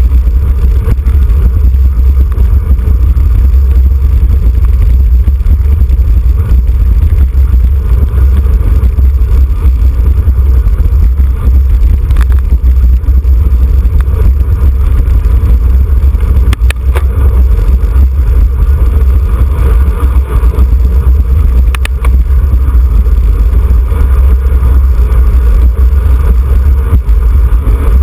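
Wind buffeting the microphone of a camera on a road bicycle at race speed: a loud, steady low rumble, with a few faint clicks.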